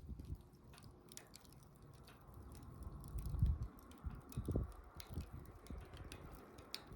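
Wood bonfire crackling, with irregular sharp pops and snaps over a low hiss, and a couple of low rumbling swells of the flames near the middle.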